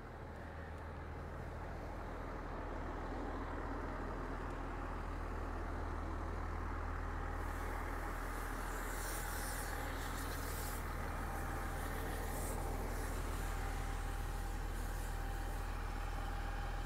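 A motor vehicle's engine running steadily with a low hum, growing louder over the first few seconds, with a stretch of hiss midway through.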